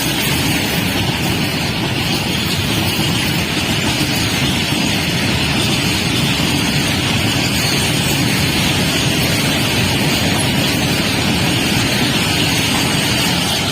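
Train running at speed on Indian Railways track: a loud, steady rumble of wheels on rails with a hiss of rail noise above it.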